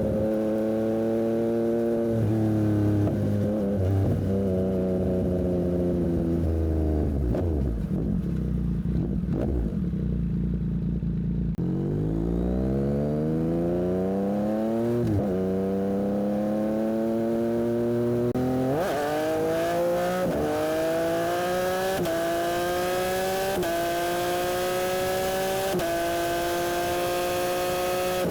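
Yamaha MT-09 SP's three-cylinder engine through a Dominator aftermarket exhaust, under way. It runs steadily, then the revs fall off about a third of the way in, then it accelerates hard with revs rising through a string of upshifts in the second half.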